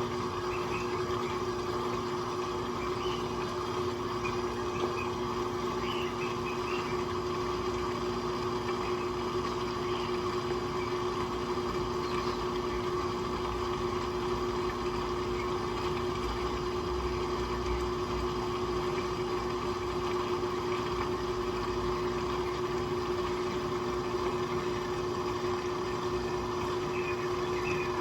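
Electrolux Turbo Limpeza Premium 6 kg washing machine running with a steady motor hum, holding one even tone, with faint light ticking over it.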